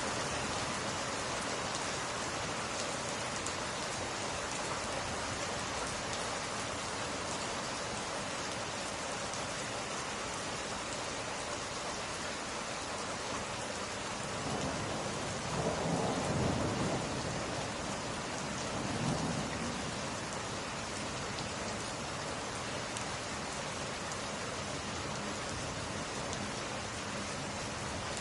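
Steady rain pattering on window glass, with a low roll of thunder swelling past the middle and a smaller rumble just after it.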